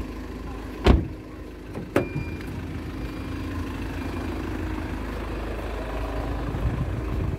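Volkswagen Sharan's engine idling evenly with a steady low hum. Two sharp knocks come about one and two seconds in.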